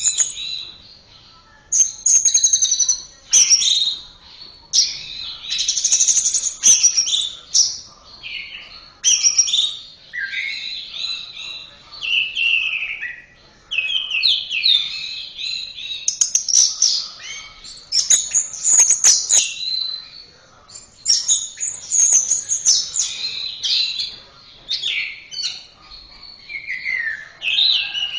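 Orange-headed thrush (anis merah) singing a varied song of whistled and warbled phrases, each one to two seconds long, separated by short pauses.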